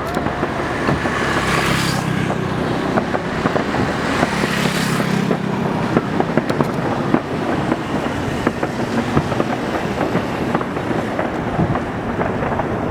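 Distant fireworks: a continuous run of pops and crackles over a steady low rumble, with two brief hissing rushes in the first five seconds.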